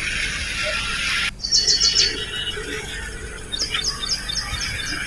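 A small bird calling in quick runs of short, high, slightly falling chirps, about eight a second. One run comes about a second and a half in and a longer one near the end, over a steady outdoor hiss.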